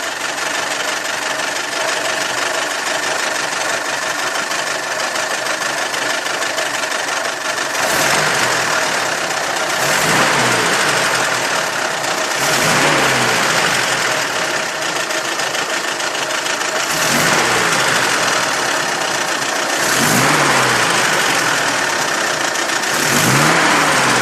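GAZelle's ZMZ-402 four-cylinder petrol engine idling, then revved briefly several times, with a diesel-like knock. The knock turned out to come from a scuffed fourth piston.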